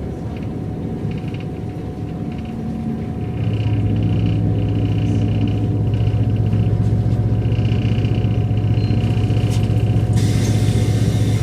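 Mercedes-Benz O405 N² city bus's diesel engine and Voith automatic gearbox running while driving. The drone grows louder about three seconds in, as the engine pulls under load, and holds steady, with a high hiss joining near the end.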